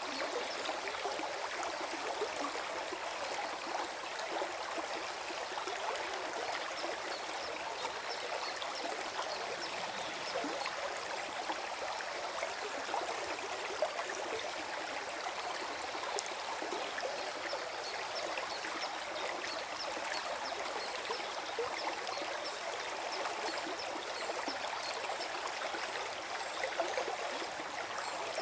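Small forest stream flowing and gurgling over rocks, a steady splashing and trickling.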